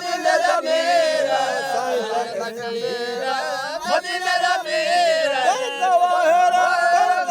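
A solo voice singing a slow Punjabi devotional song, with long wavering, ornamented held notes.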